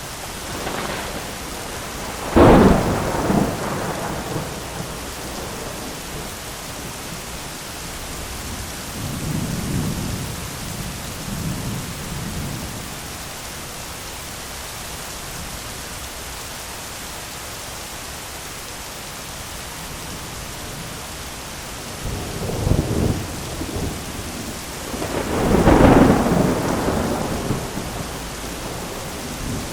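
Heavy rain pattering steadily on an umbrella, with thunder: a sharp loud clap a couple of seconds in, softer rumbles around ten seconds, and a long loud peal near the end.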